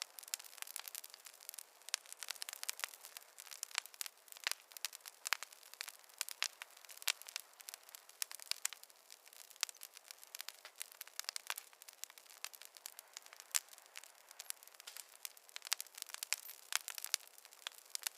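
Fireplace fire crackling, with many irregular sharp pops and snaps.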